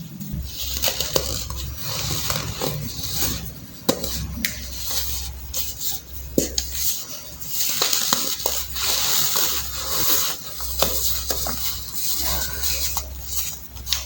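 Dried baking soda being crushed: dense crunching and crumbling with many sharp little snaps, coming in bursts with brief pauses.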